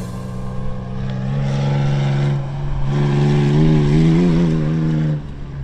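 Off-road rally SUV's engine running under load as it drives, its note rising and wavering before it fades out about five seconds in.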